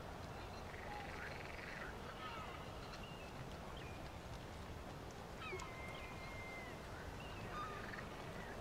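Birds calling over a steady faint background hiss: scattered short chirps and whistles, with one longer whistled note that dips and then holds for about a second, starting about five and a half seconds in.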